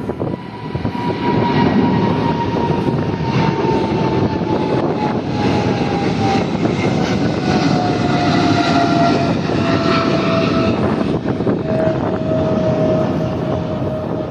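Boeing 777 jet engines at takeoff thrust: a loud, steady roar with a whine that slides slowly down in pitch.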